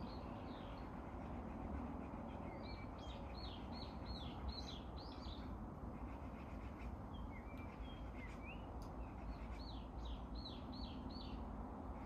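A songbird singing two phrases of quick repeated down-slurred whistled notes, several a second, over a steady low rush of wind in the trees.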